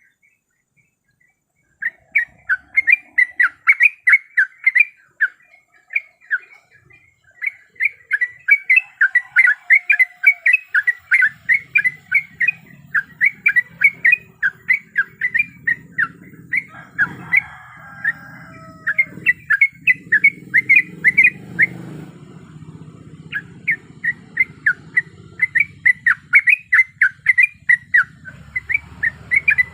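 Yellow-vented bulbul (trucuk) calling: long runs of short chirps repeated several times a second, with a short silence at the start and a brief pause later on, over a faint low background hum.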